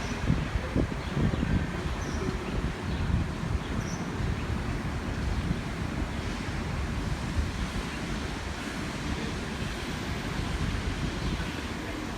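Wind buffeting the microphone over a steady bed of outdoor street noise, unevenly loud and heaviest in the low rumble. A few faint high chirps come through in the first few seconds.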